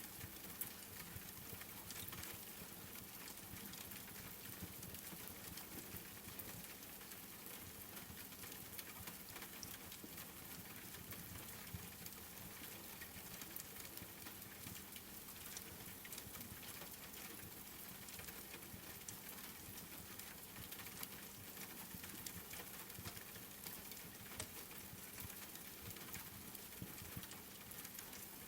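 Steady rain with a wood fire burning in a fireplace: an even hiss of rainfall dotted with many small, scattered pops and clicks.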